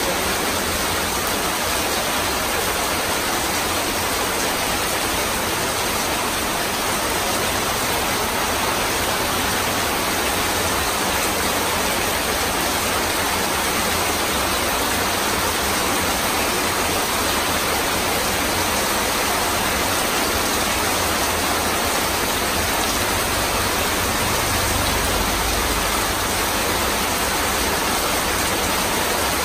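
Heavy rain falling on corrugated tin roofs and pouring off their edges in streams: a steady, unbroken rush.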